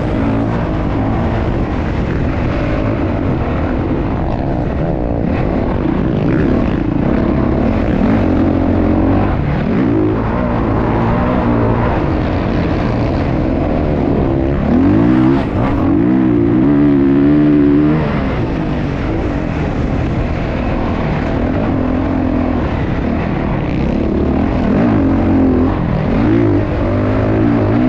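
Motocross dirt bike engines revving, their pitch rising and falling again and again as the throttle opens and closes, loudest about two-thirds of the way through.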